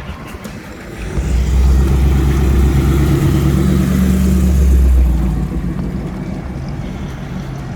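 A car engine running close by: it grows loud about a second in, holds a deep, steady note for about four seconds, then falls back to a lower level.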